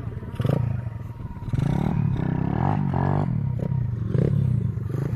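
Small pit bike engine running, its revs rising and falling several times.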